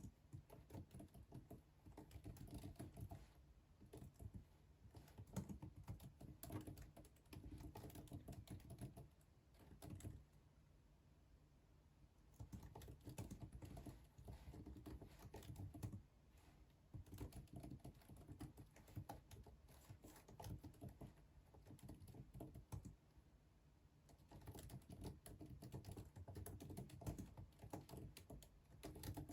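Faint typing on a computer keyboard: quick runs of key clicks in spells of several seconds, with short pauses between them.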